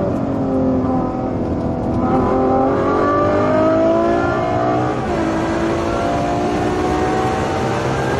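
Ferrari FF's V12 engine pulling hard under acceleration, its pitch climbing, dropping abruptly with an upshift about five seconds in, then climbing again.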